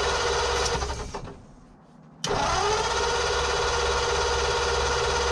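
Starter cranking a 1940 Ford flathead V8 that does not catch. The cranking dies away about a second in, then starts again abruptly about two seconds in, rising in pitch as it spins up and then holding a steady whir.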